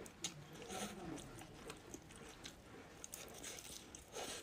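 A person chewing food close to the microphone, with soft wet mouth clicks scattered through and a slightly louder smacking bite near the end.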